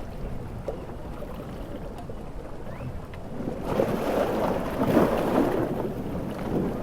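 Ocean surf in a storm: a steady rushing wash, then a large wave swells and breaks about halfway through, loudest a little past the middle, and eases off near the end.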